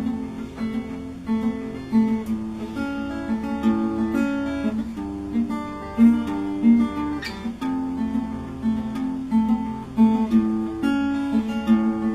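Acoustic guitar strummed in a steady rhythm, playing a song's instrumental intro before the vocals come in.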